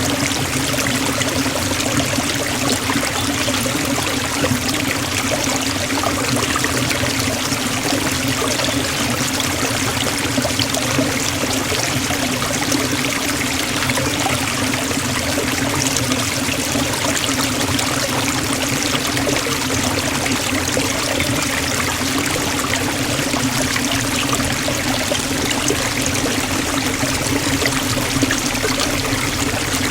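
Waterfall splashing steadily into a stream, a continuous even rush of falling water.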